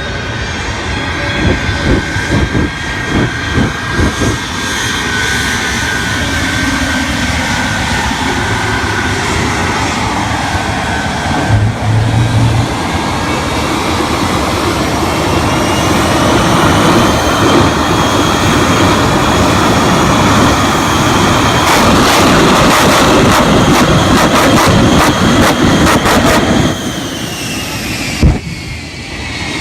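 A high-powered Corvette making a run down the runway. The loud engine noise with a whine builds for several seconds and crackles at its peak, then drops off sharply near the end as the whine falls in pitch.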